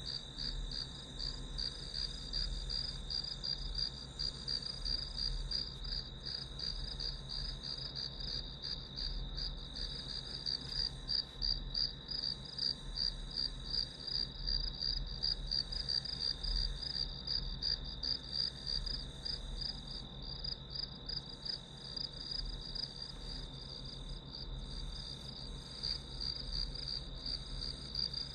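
Crickets and other grass insects chirping in chorus: a steady, high-pitched trill with fast, even pulsing.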